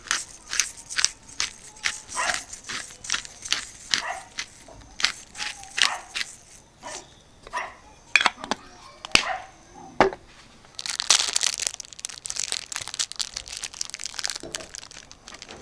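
Irregular sharp clacks and taps of cooking gear being handled, about two or three a second, with a few seconds of dense crackling about eleven seconds in.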